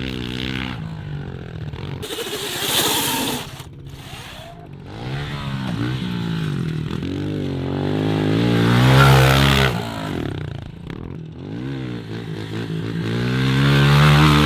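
Off-road engines of a pit bike and a Can-Am side-by-side revving up and down through the gears over and over. They swell to their loudest about nine seconds in and again near the end, then cut off abruptly.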